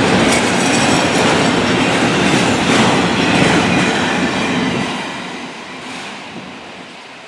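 Florida East Coast freight train's cars rolling past with steady wheel-on-rail clatter, fading away from about five seconds in as the train moves off.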